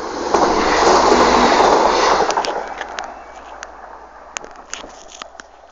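Passenger train rushing past close by at speed, loudest for about two seconds, then fading as it goes away, with a run of sharp clicks as it recedes.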